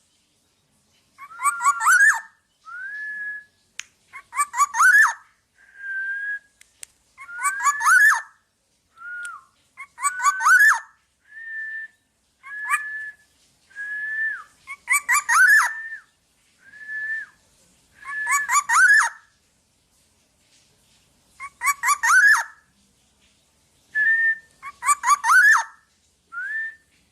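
Black-naped oriole singing: fluty whistled phrases, repeated every two to three seconds, most of them joined by a harsh rasping note, with short single whistles between them.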